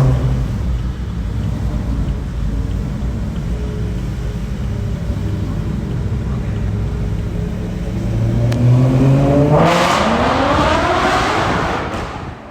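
2009 BMW E93 M3's naturally aspirated V8 through a Zen-Rage aftermarket exhaust, running at low revs, then accelerating hard from about eight seconds in with its pitch climbing steeply. It gets louder as it climbs and drops away just before the end.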